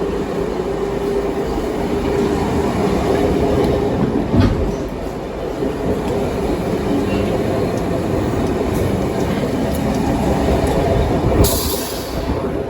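Sydney S-set double-deck suburban electric train running at speed, heard from inside a carriage: steady wheel-and-rail rumble with a low steady tone, a single thump about four seconds in and a short hiss near the end.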